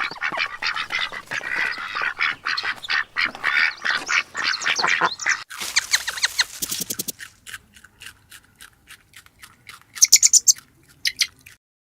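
Birds calling and squawking densely for about five seconds, followed by a run of short sharp clicks and, near the end, a brief cluster of high chirps.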